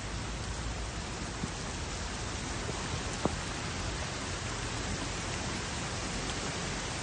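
Steady hiss of a heavy downpour with floodwater running, even and unbroken, with one faint tick about three seconds in.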